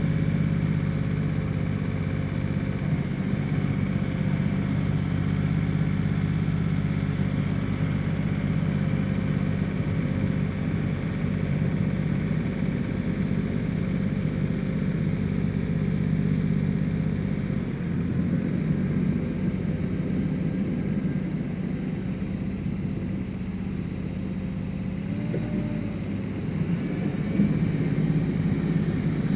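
A 1985 John Deere 1050 tractor's three-cylinder diesel engine runs steadily while plowing snow. Its pitch dips briefly about two-thirds of the way through, then shifts again slightly near the end.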